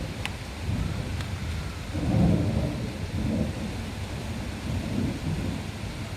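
Thunder rumbling over steady rain, the rumble swelling to its loudest about two seconds in and rolling on in fading waves.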